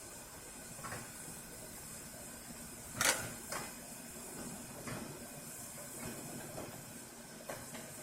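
One sharp knock about three seconds in and a few fainter knocks and clicks, over a steady hiss.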